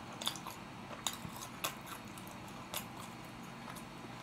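A person chewing food with the mouth close to the microphone: a few short, wet mouth clicks and smacks now and then.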